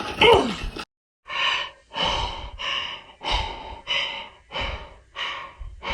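A short pitched cry, then a sudden drop to silence, then heavy panting: about eight loud, rapid breaths, a little over half a second apart. It is a pained gasping for breath.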